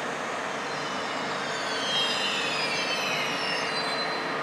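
ÖBB InterCity passenger train pulling in along the platform over a steady rumble. Its wheels and brakes squeal in several high tones that slide down in pitch as it slows.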